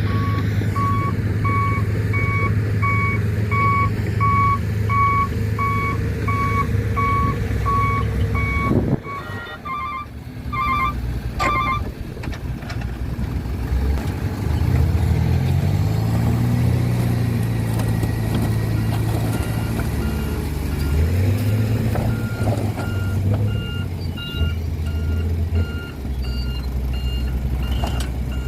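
Isuzu dump truck's diesel engine running while its reversing alarm beeps steadily. After about nine seconds the beeping breaks off, the engine revs up and settles again, and a second, higher-pitched beeper starts about two-thirds of the way through.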